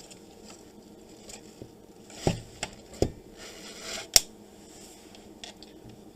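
Handling knocks and clicks as an inverter circuit board is turned over on a workbench: three knocks around two to three seconds in and a sharp click about four seconds in.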